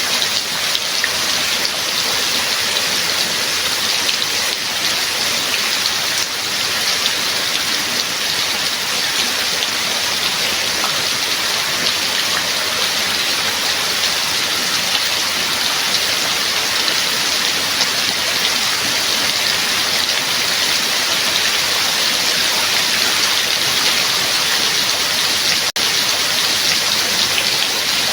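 Steady, heavy rain falling, an even hiss of many drops with no let-up. A split-second gap in the sound comes near the end.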